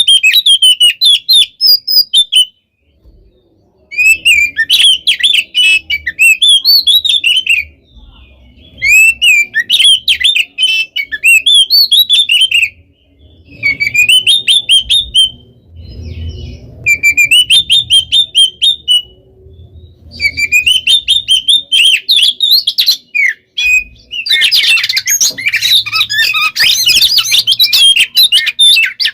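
Oriental magpie-robin (kacer) in full song. It gives loud, rapid phrases of varied whistles and chattering notes in bursts of a few seconds with short pauses between them, then sings without a break for the last few seconds.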